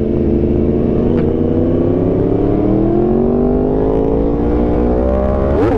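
Yamaha R1M crossplane inline-four motorcycle engine pulling steadily under acceleration, its pitch rising slowly for about five seconds, then dropping sharply and picking up again near the end as the rider shifts up a gear, with low wind rumble on the helmet microphone.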